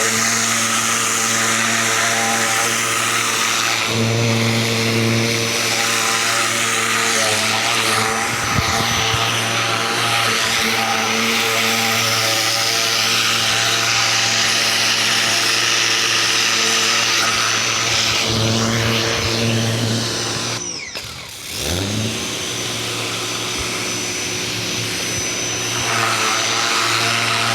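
Ryobi 2000 PSI electric pressure washer running, its motor and pump humming under the hiss of the water jet blasting the fence. About three-quarters of the way through the spray cuts back briefly with a falling whine, then comes back at full strength near the end.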